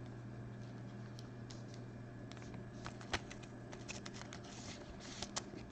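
Scattered light clicks and taps, a few at a time and thicker in the second half, over a steady low electrical hum.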